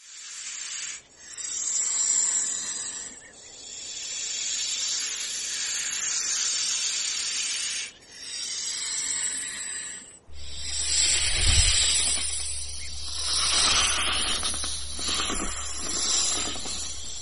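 A series of long hisses, each lasting a few seconds with short breaks between them, and a faint low hum joining after about ten seconds.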